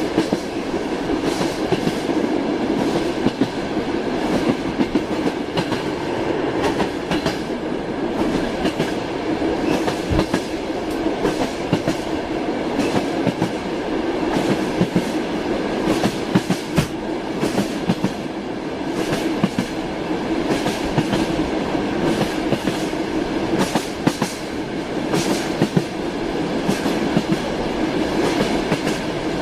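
Train running on rails with a steady rumble, its wheels clattering over the rail joints in frequent sharp clicks.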